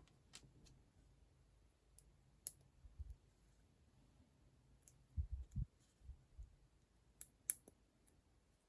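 Small plastic building-block pieces clicking as they are handled and pressed together, scattered sharp clicks at irregular spacing with a few soft low knocks in between, a quick cluster of clicks near the end.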